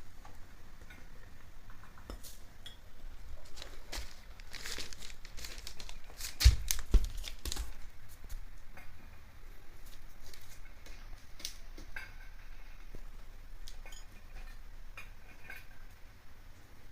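Hens pecking at feed in a dish, their beaks tapping and clinking against it in an irregular patter, with a few louder knocks about six and a half seconds in.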